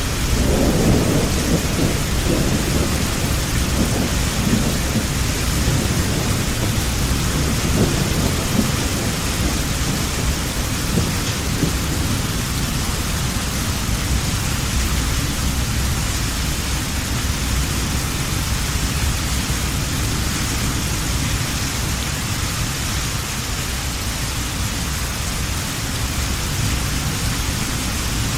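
Heavy rain falling steadily, with a low rumble of thunder that rolls on in the first few seconds and dies away about ten seconds in.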